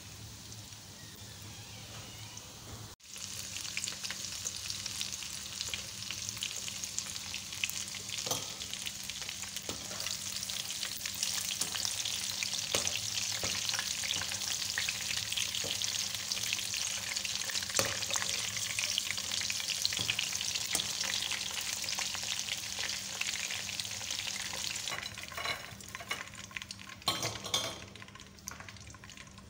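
Breadcrumb-coated chicken skewers frying in hot oil in a wok: a steady sizzle with scattered crackles and pops. It breaks off briefly about three seconds in, comes back louder, and dies down near the end.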